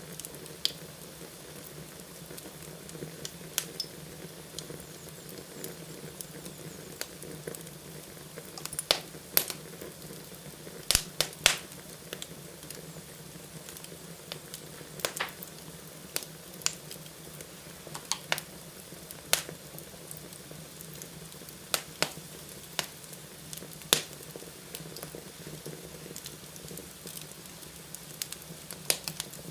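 Fire burning in a fireplace, crackling over a steady low hiss, with irregular sharp pops every second or two and a few louder snaps near the middle.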